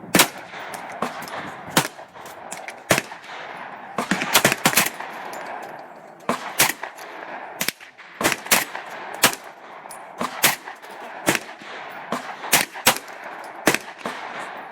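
Gunfire at a shooting range: many shots from several guns, fired at irregular intervals, some in quick pairs and short strings, each with a reverberant tail.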